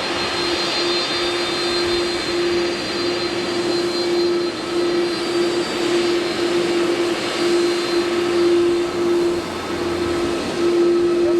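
Jet aircraft engines running steadily: an even rushing noise with a constant hum underneath.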